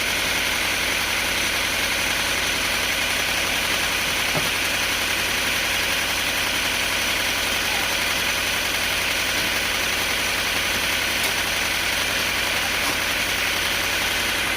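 Sawmill machinery running steadily: an even engine drone with a constant hiss.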